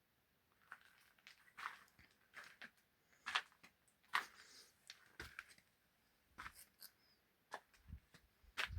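Irregular crunching footsteps on dry, gravelly ground, about one or two steps a second.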